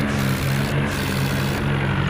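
Tractor engine running steadily with a loud, even drone.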